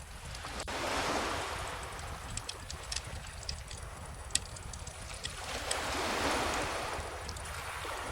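Calm ocean waves washing in and drawing back, with swells about a second in and again around six seconds. A wood bonfire crackles over them in sharp, scattered pops.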